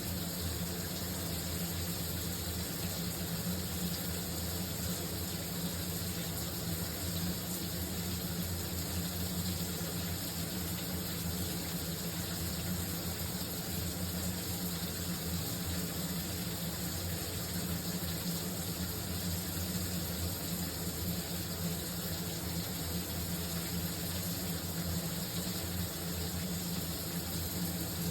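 Shower running: a steady, unbroken hiss of falling water, with a low steady hum beneath it.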